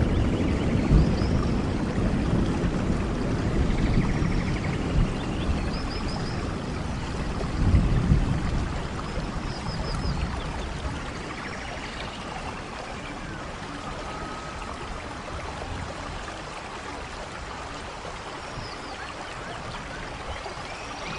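Steady rain, with a deep rumble of thunder that swells about eight seconds in and dies away by the middle. Short high chirps sound every second or two over the rain.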